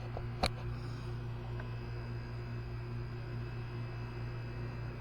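Steady low electrical hum, with one sharp click or knock about half a second in and a couple of fainter clicks.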